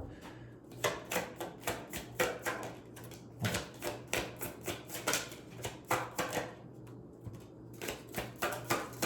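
A tarot deck being shuffled by hand: a quick, uneven run of crisp card clicks and slaps, several a second.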